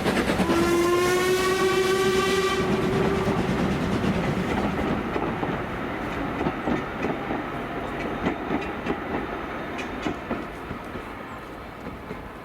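A steam locomotive sounds its whistle once, for about two seconds, near the start. The train then rolls away, its wheels clicking over the rail joints as the sound slowly fades.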